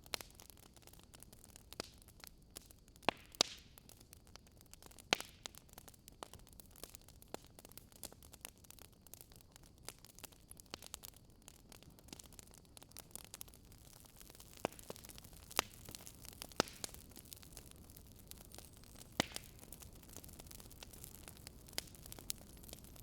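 Fireplace wood fire crackling faintly: irregular sharp pops and snaps over a steady low hiss.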